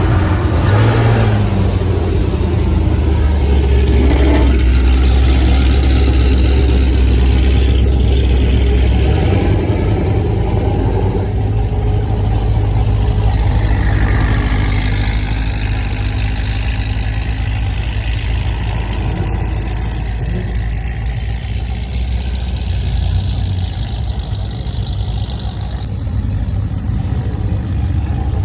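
A car engine running steadily with a low rumble that eases a little about nine seconds in.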